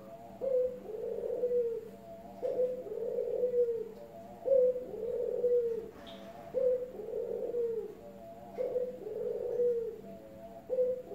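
Zebra dove (perkutut) singing its cooing song. Each phrase is a short note followed by a longer rolling coo, repeated about every two seconds.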